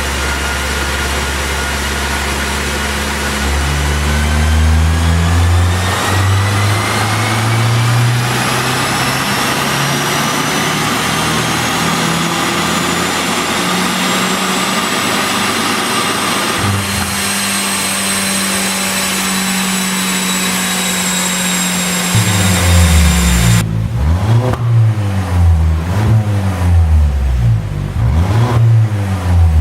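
Peugeot RCZ's ECU-tuned engine on a chassis dyno, pulling through a long, steady run with its pitch slowly rising for about seventeen seconds, then easing back. Near the end come a series of quick revs, each rising and falling.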